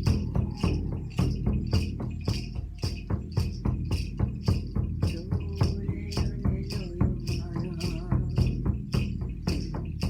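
Shamanic journey music: a steady, fast rhythm of percussion strikes, about three to four a second, with a jingling, rattling edge, over a sustained low drone.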